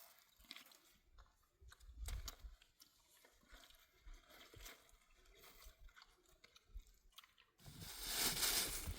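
Scattered small crunching clicks and soft low thumps. Near the end a loud rushing noise starts suddenly.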